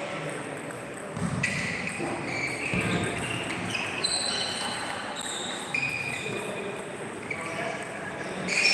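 Table tennis play in a large hall: ping-pong balls clicking against bats and tables, with several short high squeaks. Voices chatter in the background.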